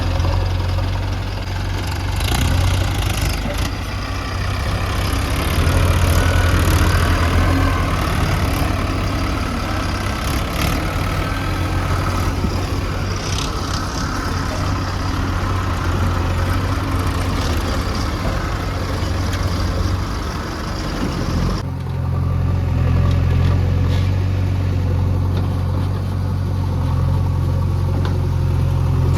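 Heavy diesel engine of earth-moving machinery running steadily with a deep hum, with a few short knocks. About 22 seconds in, the higher part of the noise drops away abruptly while the engine hum carries on.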